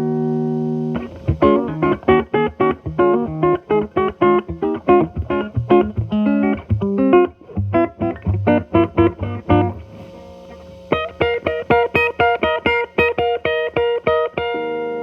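Telecaster electric guitar through an MI Audio Crunch Box distortion pedal set to minimum gain, into a Marshall Valvestate amp's clean channel, giving a lightly driven tone. A held chord gives way about a second in to fast picked single-note runs, a short pause around ten seconds, then more picked notes and a held note near the end.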